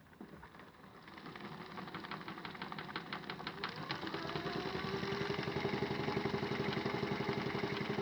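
Small electric motor of a modified Miele toy washing machine starting up and turning the drum, with a rapid, even clatter that grows louder over the first few seconds and a steady hum settling in about halfway through.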